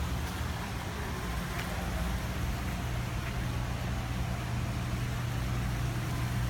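A steady low hum over an even background hiss, with no distinct events.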